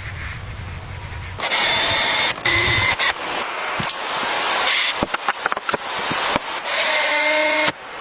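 Power tool running in short, choppy bursts with a steady whine, broken by a quick run of sharp taps about five seconds in.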